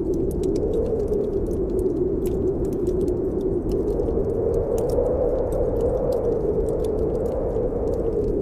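Snowstorm wind howling steadily, its pitch slowly rising and falling, with frequent small crackles and pops from a wood fire in a fireplace.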